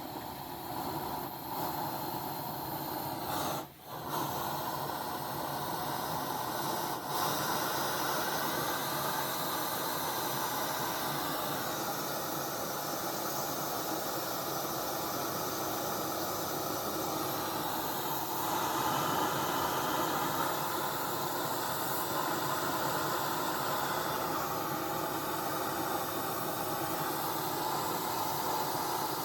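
Homemade waste-oil burner stove (kalan de oil) burning used motor oil: a steady hiss of flame and air, with a brief dip about four seconds in.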